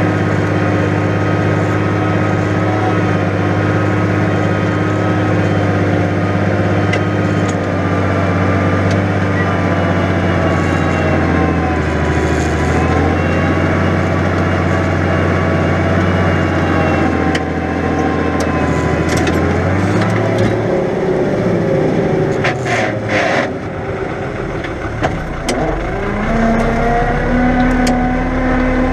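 New Holland 100-90 tractor's diesel engine running steadily under heavy load while ploughing. About two-thirds of the way through the engine note drops and eases off, with a few sharp knocks. Near the end the engine revs back up.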